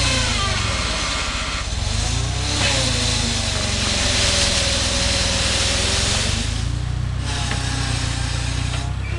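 Gehl 4400 skid steer's engine running hard under load. Its pitch sags and recovers several times as the machine works, with a noisy hiss over it.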